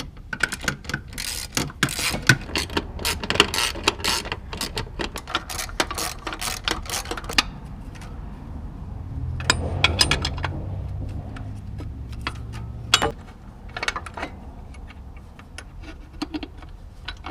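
Hand tools working loose a motor mount bolt: rapid runs of metal clicks and clinks like a ratchet wrench turning, thinning out after about seven seconds. A low hum rises for a few seconds in the middle.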